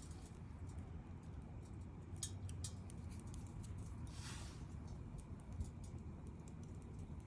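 Wood fire burning, with sharp crackles and pops that cluster about two seconds in and a brief hiss about four seconds in, over a low steady rumble.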